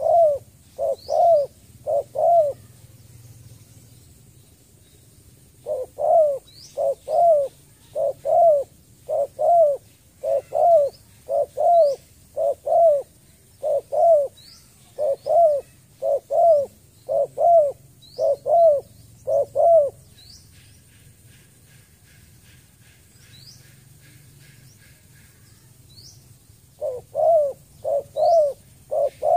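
Spotted dove calling in long runs of short, low coo notes, about three every two seconds, with pauses between the runs. Faint high chirps of other birds sound throughout.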